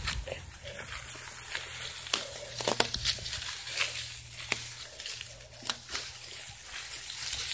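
Bicycle riding over a woodland trail: twigs and dry leaves crackle and snap under the tyres, with irregular sharp clicks and knocks.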